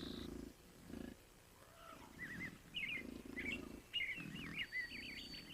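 Bison in a herd grunting, with short low grunts repeating every second or so, while small birds chirp and sing higher up.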